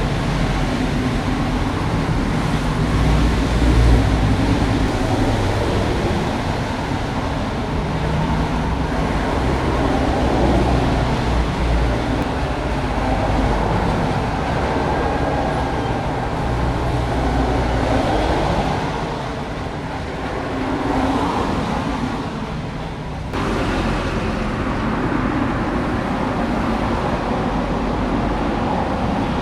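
Radio-controlled Bruder CAT D11 model bulldozer running steadily as it grades, its motors and tracks working. The sound drops and changes abruptly about two-thirds of the way through.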